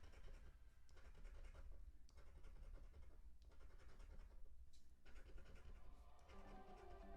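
Faint, repeated scratching strokes on a scratch-off lottery ticket as its coating is scraped away.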